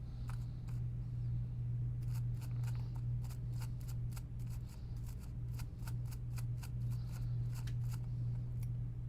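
Quick, irregular small clicks and scrapes of hand work on the plastic parts of a PS5 controller's analog stick module during cleaning, a few a second, over a steady low electrical hum.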